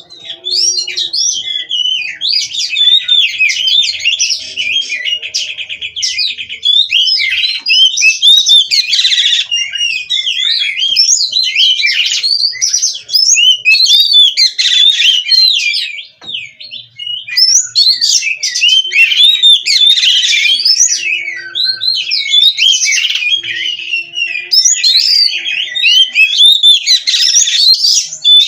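Oriental magpie-robin (kacer) singing continuously: a loud, fast stream of varied, sliding whistled phrases, with only a brief pause about halfway through.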